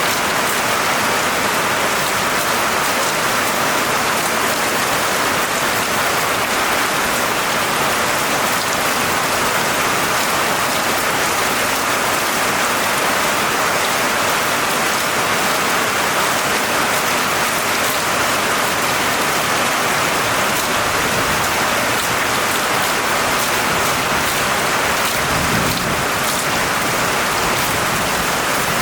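Steady heavy rain falling and pattering on surfaces, an even hiss. A low rumble of thunder swells briefly near the end.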